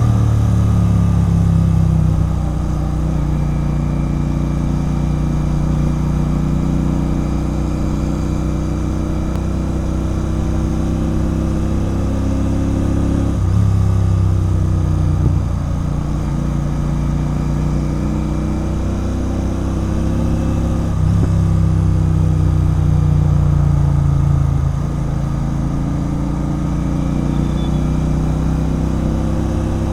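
Royal Enfield Continental GT 650's parallel-twin engine running through a loud Red Rooster Performance aftermarket exhaust while riding. It holds a steady note, with a few throttle changes: it gets louder about 13 seconds in and again between about 21 and 25 seconds.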